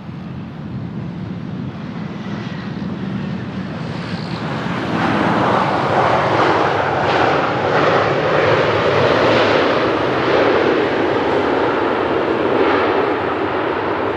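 Boeing 737 jet engines, growing much louder about five seconds in and staying loud as the airliner passes on its arrival. Wind rumbles on the microphone early on.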